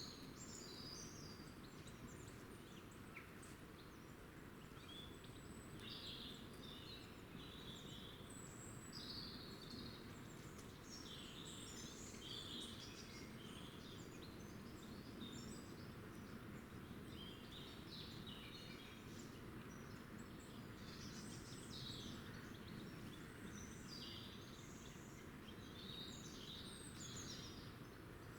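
Small birds chirping and singing on and off, many short high calls, faint over a steady low background noise.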